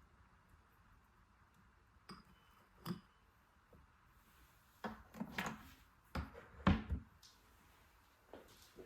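A few light clicks, then a short cluster of knocks and thuds of objects being handled and set down in a quiet room.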